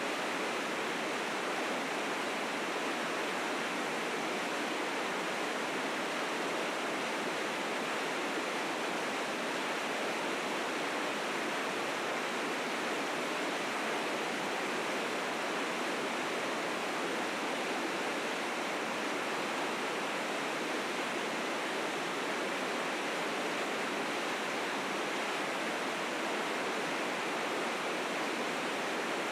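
River rapids running fast and full with spring snowmelt, a steady, even rush of white water.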